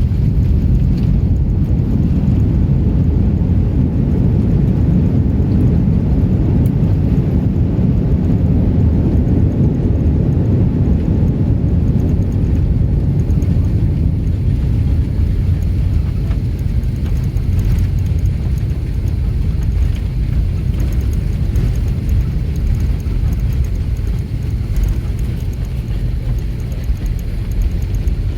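Cabin noise inside an Airbus A330-300 airliner: a loud, steady, low rumble of engines and airflow that eases a little in the second half.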